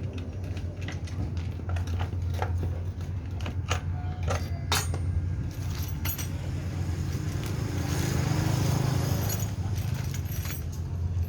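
Small metal chainsaw parts and tools clinking and rattling as they are handled during assembly, in short irregular clicks, over a steady low hum; the rattling grows louder for a few seconds about two-thirds of the way through.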